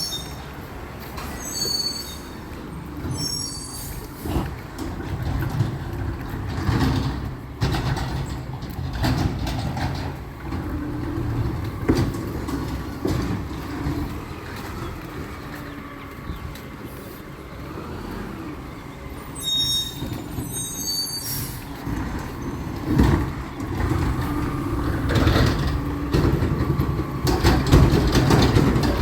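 Recycling truck's diesel engine running with a steady low rumble, with clanks and knocks from its lifting and compacting gear. Brief high squeaks come near the start and again about two-thirds in.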